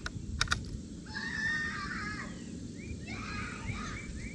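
Two sharp clicks near the start, followed by an animal's wavering, pitched calls in two long stretches, the second beginning about three seconds in.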